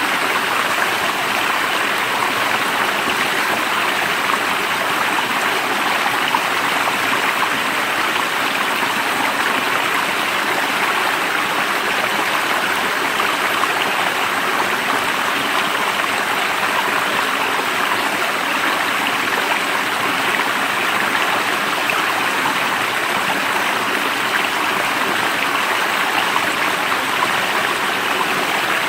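Running water of a stream, a steady, unbroken rush with no change in level.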